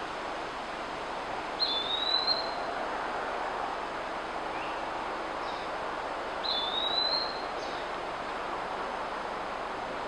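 A bird calling twice, about five seconds apart: each call is a single high note, under a second long, rising slightly. Both sit over a steady hiss of forest ambience.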